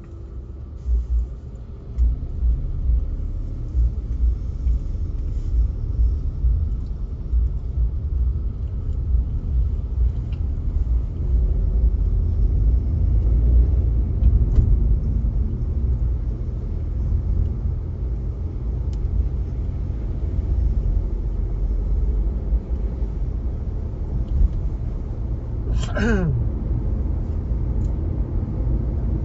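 Steady low rumble of a car driving, with engine and road noise. Near the end, a brief whine falls sharply in pitch.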